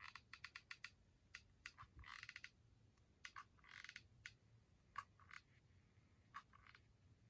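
Faint quick clicks and crackles in short runs as a hot glue gun is worked and cardboard is handled during gluing.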